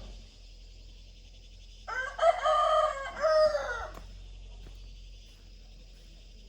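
A rooster crowing once, a drawn-out call of about two seconds that rises, holds and falls away, over steady insect chirring.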